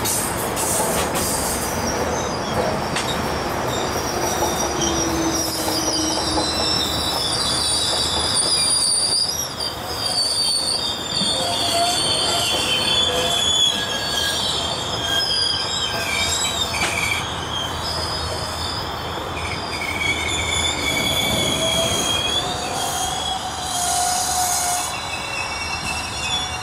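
GO Transit bilevel passenger coaches rolling past, with a steady rumble and rail noise. Several high-pitched squeals from the steel wheels waver and come and go over it.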